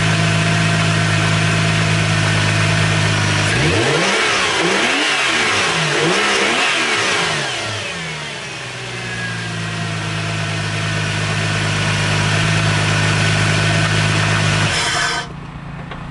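2004 Subaru Legacy Outback's boxer engine idling, revved up and down several times in the middle, then settling back to a steady idle. It runs after a cold-weather no-start, and the sound cuts off suddenly near the end.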